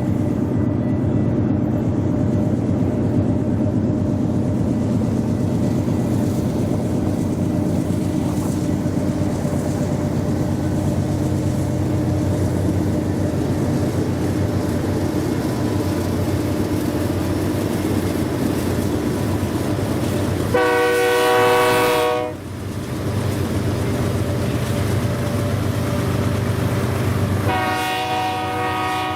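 Diesel freight locomotives working upgrade with a steady engine drone, the horn sounding once for about a second and a half a little past the middle, then again near the end.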